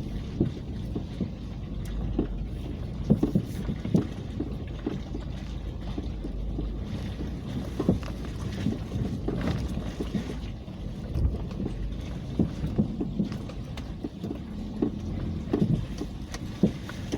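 Car driving slowly along a muddy woodland track: a steady low engine and road rumble with frequent knocks and rattles from bumps.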